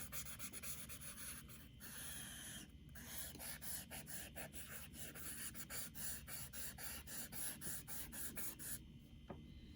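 Eraser rubbed back and forth over charcoal on drawing paper to blend the shading, a scratchy sound of quick, repeated strokes that stops near the end.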